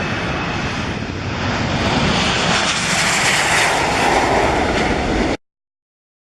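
Jet engines of a Boeing 737-700, CFM56-7B turbofans, running at high power on departure: a loud, broad roar that swells and is loudest in the middle seconds, then cuts off abruptly about five seconds in.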